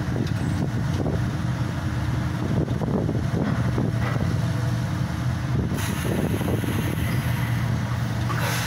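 Heavy diesel engine of a hydraulic static pile driver running steadily, with a few faint knocks, and a high hiss joining about six seconds in.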